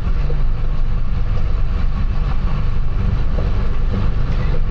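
Steady low rumble of a Cummins-swapped Ram 1500 truck camper driving slowly: engine and tyres on the gravel tunnel floor.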